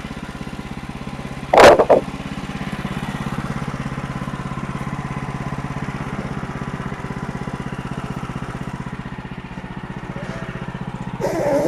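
A sawmill's engine running steadily, with a sharp loud knock about a second and a half in.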